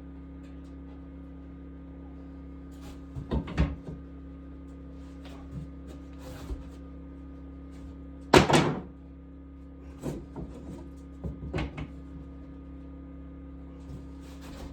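A few scattered knocks and clunks, the loudest a little past halfway, over a steady low hum.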